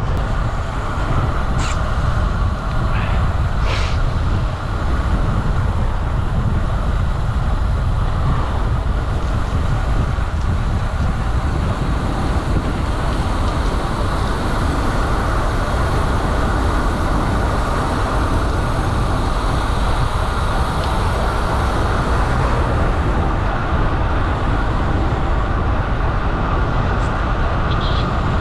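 Steady rush of wind over the microphone of a road bike descending fast, at close to 80 km/h. A few faint ticks come in the first few seconds and again near the end.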